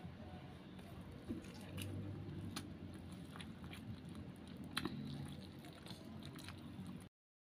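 Faint chewing and mouth sounds of someone eating fried tofu and rice by hand, with a few small clicks. The sound cuts off abruptly to silence just before the end.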